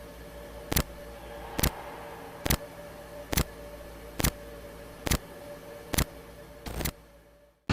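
Regular ticking, one sharp double tick a little less than once a second, over a faint steady hum. It stops near the end.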